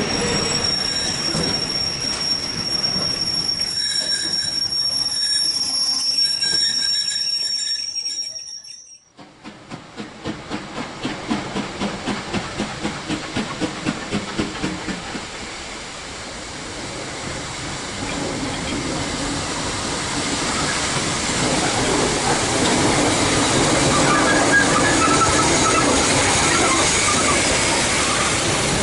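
Train wheels squealing steadily on the rails in a high whine. Then the sound cuts off suddenly and is followed by a train's rhythmic beats, about two to three a second, giving way to a steady rolling rumble that grows louder.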